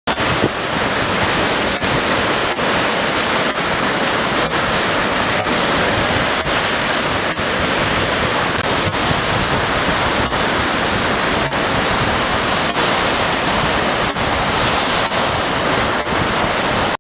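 Steady, loud rushing noise of wind and sea surf at the shoreline, with wind buffeting the microphone.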